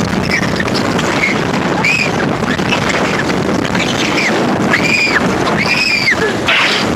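Wooden roller coaster in mid-ride: rushing wind buffets the microphone over the train's rumble and rattle, while riders let out short high-pitched screams that rise and fall, several times.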